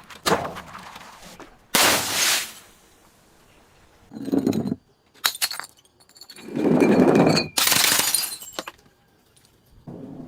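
Glass bottles breaking: a series of separate smashing crashes with the clink of glass shards, the loudest and longest about two-thirds of the way through.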